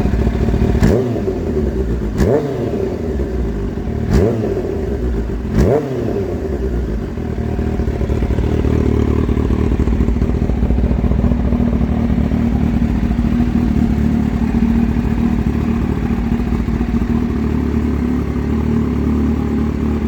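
Kawasaki H2's supercharged inline-four, fitted with an aftermarket exhaust, blipped four times in quick succession, each rev rising and falling sharply, then settling into a steady idle.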